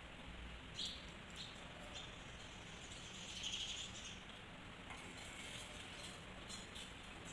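Birds chirping: a short chirp about a second in and a longer spell of high chirping around three to four seconds in, over a faint steady hiss.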